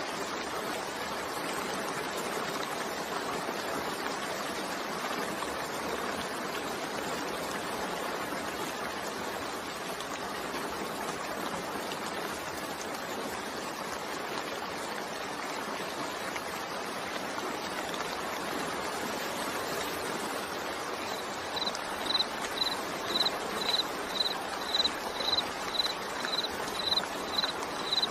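Steady rain. About three-quarters of the way through, a high chirp joins it, repeating evenly about twice a second.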